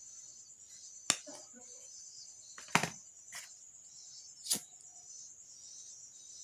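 Three sharp snips of wire being cut with cutting pliers, about a second and a half apart, the middle one the loudest. A steady high-pitched chirring runs underneath.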